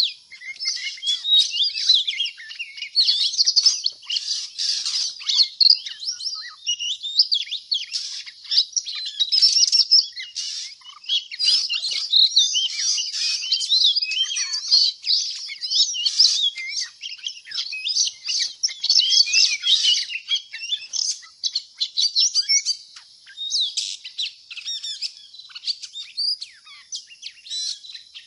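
Small birds chirping and twittering rapidly and continuously, many high, quick chirps overlapping.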